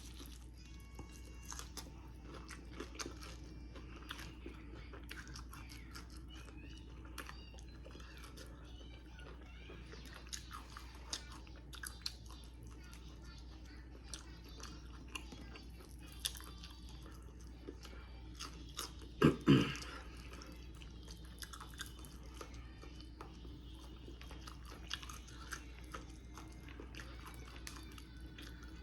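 Close-up chewing and biting of crispy fried chicken, with many small crunches scattered throughout. One short louder sound comes about two-thirds of the way through.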